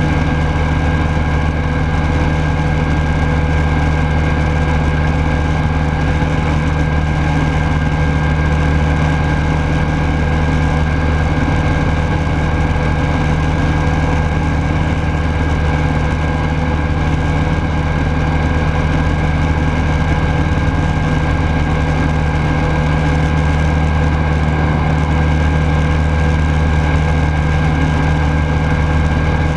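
Rans Coyote S6 ultralight's Rotax 912S flat-four engine and propeller running at a steady, even speed, heard loud from onboard.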